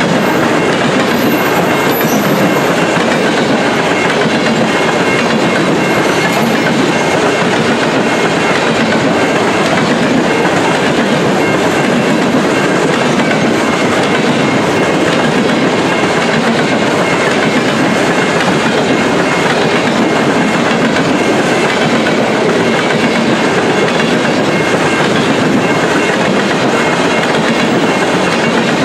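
Covered hopper cars of a grain train rolling past close by: a loud, steady noise of steel wheels running on the rails.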